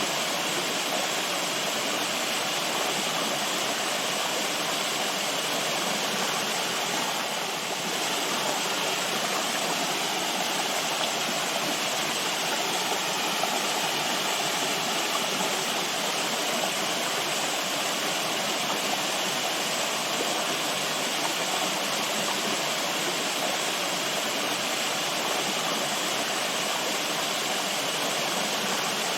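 Flowing water: a stream or small waterfall, a steady even rush with no changes.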